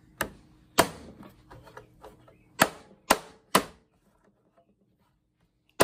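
Hammer striking the plastic casing of an old monitor: about six sharp blows, with a pause of about two seconds before the last.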